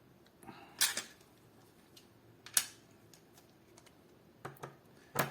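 Sharp clicks and taps of small hard parts being handled while an airsoft AK's hop-up chamber cap is pressed into place and adjusted. About six clicks come in three groups: a short scrape then a double click about a second in, a single click in the middle, and a quick run of three near the end.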